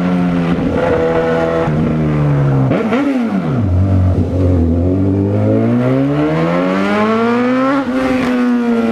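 Honda CB1000R's inline-four engine under way. It revs up briefly and falls about three seconds in, then its pitch climbs steadily for several seconds before dropping at a gear change near the end.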